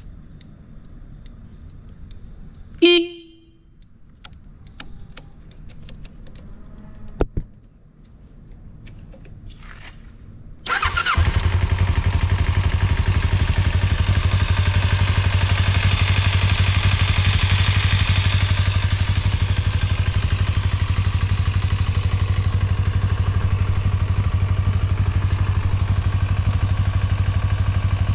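A Kawasaki GPX250's horn beeps once, short, about 3 seconds in, followed later by a click. About 11 seconds in, the starter turns its 248 cc parallel-twin engine over and it catches at once from cold, settling into a steady, even idle.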